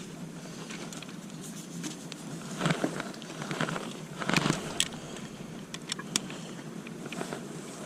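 Outdoor background noise of a busy open-air sale, with indistinct voices in the distance and a few light clicks.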